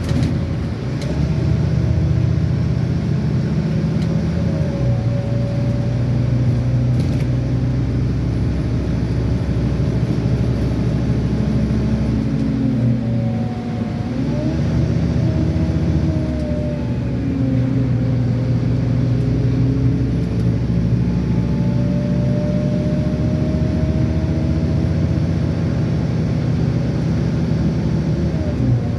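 On board a Scania N230UD double-decker bus under way: its diesel engine and automatic gearbox pulling, the engine note stepping up and down as gears change, with a higher whine that rises and falls with road speed.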